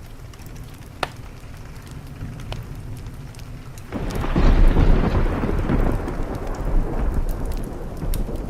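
A thunderclap rumbling in about four seconds in, loud and low, then slowly easing over steady rain. Before it, a wood fire crackles with a few sharp pops.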